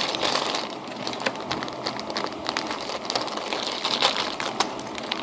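Small plastic Construct-Bot toy parts being handled, with many quick light clicks and rattles and some crinkling.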